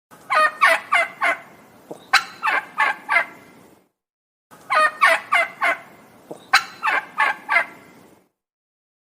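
Male turkey gobbling: four quick runs of rapid, rattling notes, in two pairs, each run about a second long.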